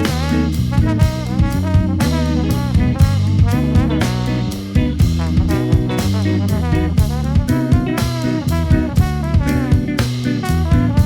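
Jazz-funk octet playing live: drum kit keeping a steady beat under electric bass and guitar, keyboard, and a horn section of saxophone, trumpets and trombones playing melodic lines.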